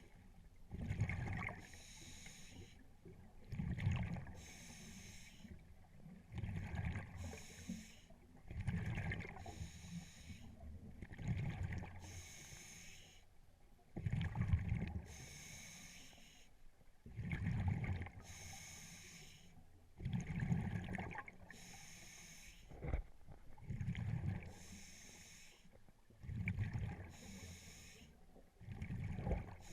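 Scuba diver breathing through a regulator underwater, about every three seconds: a hiss on each inhale and a rumbling gush of exhaust bubbles on each exhale.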